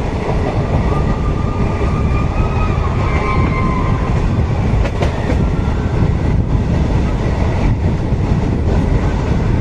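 Passenger coaches of an express train rolling past close by, a steady heavy rumble with wheels clattering over rail joints and a faint high wheel squeal in the first few seconds.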